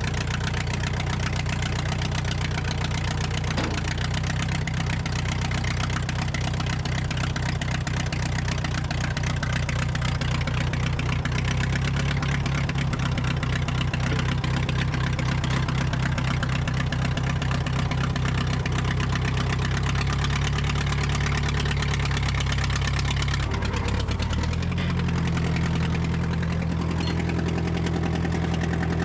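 Farmall BN tractor's four-cylinder gasoline engine running steadily. Its note shifts about three-quarters of the way through.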